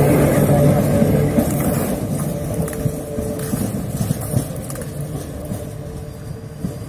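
Train Jaune's metre-gauge electric railcars pulling away: a motor hum that dies out in the first two seconds, and the wheels rumbling over the track, fading steadily as the train draws off.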